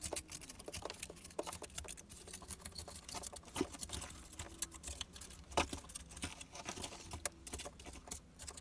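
Small plasterer's trowel scratching soft lime pointing back from between stones: a steady run of quick gritty scrapes and ticks.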